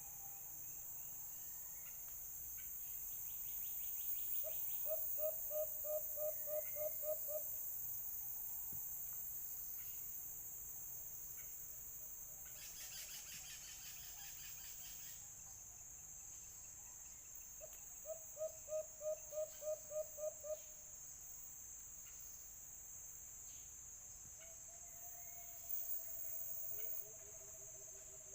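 Dove calls: two runs of about nine quick, evenly spaced low hoots, then a long held note and more low notes near the end, over a steady high insect drone. A brief harsher insect buzz comes about halfway.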